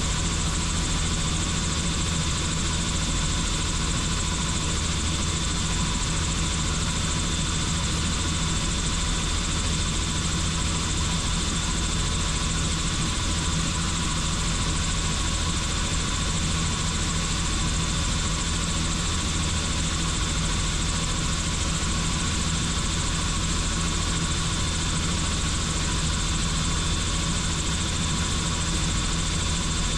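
Helicopter in flight: a steady, unchanging drone of rotor and engine, with a thin high whine held throughout.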